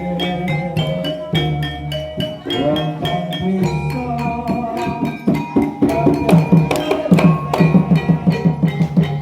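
Live Javanese gamelan accompaniment for a jaranan horse dance: struck metallophones ring out a steady melody over kendang drumming. About halfway through, the drum strokes come faster and louder.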